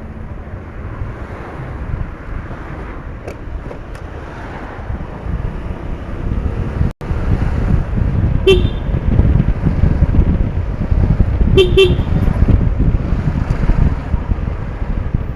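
Wind rushing over the microphone of a moving motorcycle in traffic, louder in the second half. A vehicle horn toots once about halfway through, then twice in quick succession a few seconds later.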